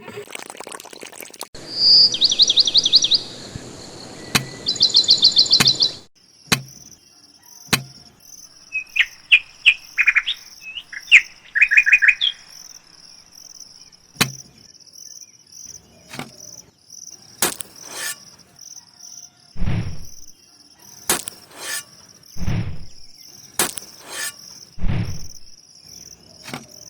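Birds chirping in short trilled series, over a steady, pulsing insect chirping like a cricket's, with scattered sharp clicks and a few soft low thumps in the second half.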